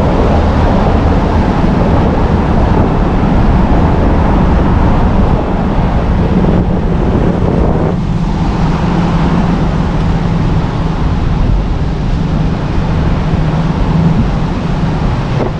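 Car driving along a road: steady engine and tyre noise. The character of the drone changes about halfway through.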